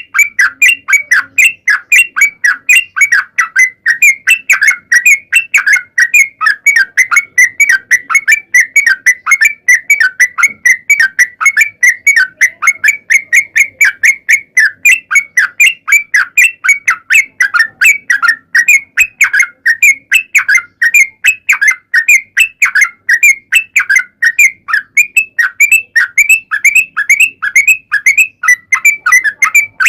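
Yellow-vented bulbul (trucuk) singing a long, unbroken run of fast, repeated chattering notes, about four a second, loud and steady.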